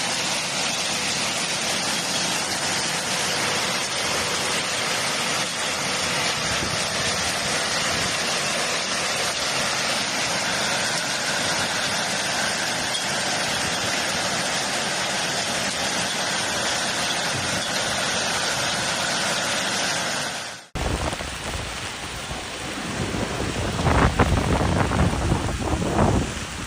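Hailstorm: a dense, steady hiss of hail and rain pelting down. About two-thirds through it cuts off abruptly, giving way to a deep rumble that swells louder near the end.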